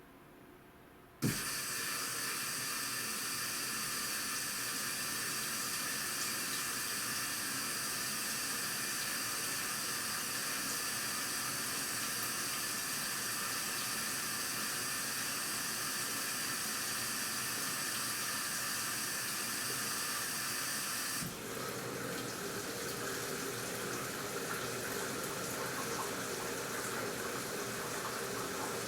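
AQUA washing machine taking in water: a click about a second in as the inlet valve opens, then a steady, loud rush of water pouring into the tub. About twenty seconds in the rush turns fuller and lower.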